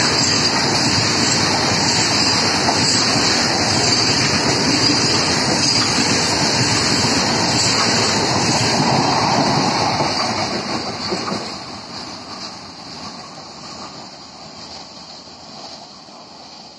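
Loaded freight train of covered goods wagons passing at speed, steel wheels running loud and steady on the rails. The noise falls away from about ten seconds in as the brake van at the tail goes by and the train draws off.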